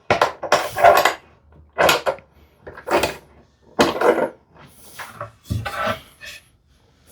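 Solid cherry lid panel being handled and turned over on the workbench: a series of short wooden knocks and scrapes, about one a second.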